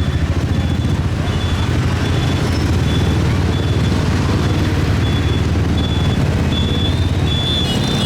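Motorcycle engine running steadily under way, with wind and road noise on the microphone. A faint high-pitched beep repeats about twice a second throughout.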